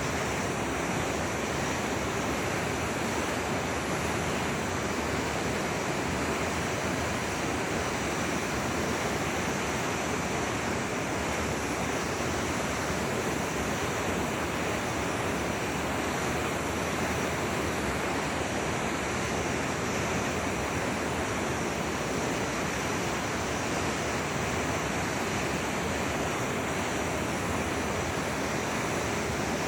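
Steady rushing of a flowing forest river: an even wash of water noise with no distinct splashes or breaks.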